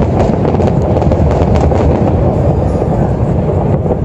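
Fireworks display: a continuous rumble of shell bursts with dense crackling running through it.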